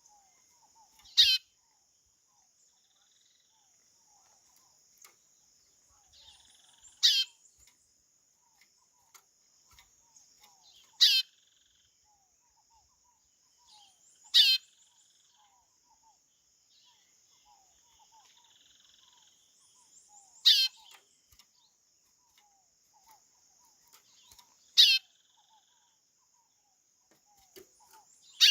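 Chorão (white-bellied seedeater) giving a short, sharp call that sweeps downward, six times, about four to six seconds apart, over a steady faint high-pitched hiss.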